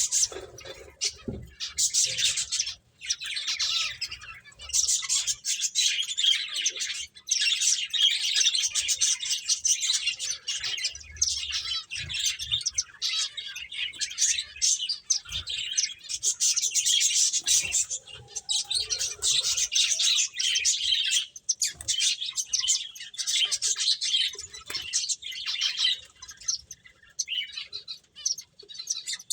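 Pet finches chirping busily, many short high calls overlapping in a steady chatter, with brief pauses and thinning out near the end.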